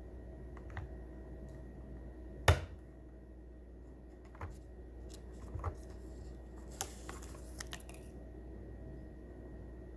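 Small clicks and taps from hand-handling a truck's instrument cluster and its speedometer needle while it is being reset to zero. There is one sharp click about two and a half seconds in, then a few lighter ticks.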